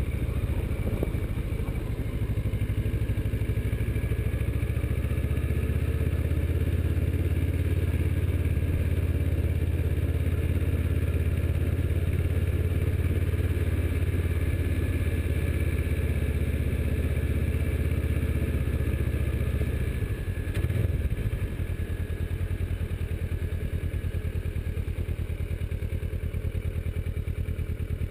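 Kawasaki Versys motorcycle engine running steadily at low speed. About twenty seconds in there is a short knock, and the engine then drops to a quieter, evenly pulsing idle as the bike stops.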